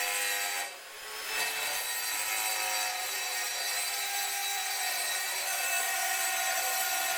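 Metal being abraded with a tool, a steady rasping that dips briefly about a second in: the flange of an aftermarket catalytic converter being worked down to open up bolt holes that don't line up.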